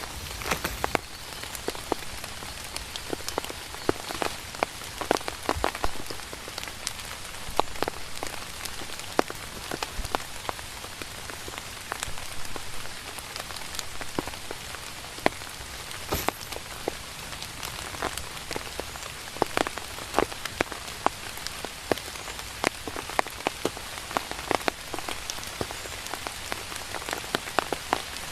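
Steady rain falling, with frequent sharp, irregular taps of drops striking close by.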